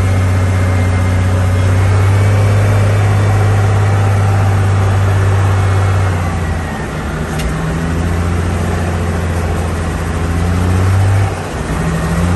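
Cat 740 articulated haul truck's diesel engine running loudly with a deep steady drone. The engine note eases off briefly about six and a half seconds in and again near the end.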